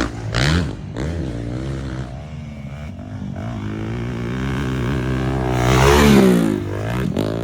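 Motocross dirt bike engines revving, more than one at a time, their pitch rising and falling as the throttle is worked. About six seconds in, one bike gets loudest, its pitch climbing and then dropping.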